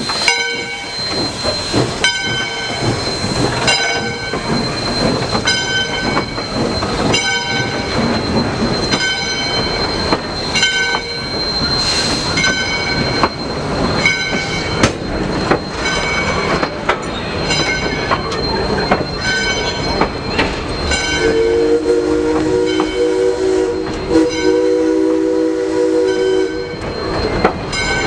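Steam locomotive's bell ringing steadily in evenly spaced strokes as the train moves. About three-quarters of the way through, the multi-tone steam whistle starts a long blast that holds to the end.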